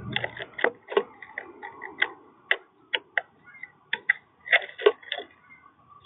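Birds at a feeder: a quick, irregular series of sharp taps and clicks, the loudest about a second in and again near the end.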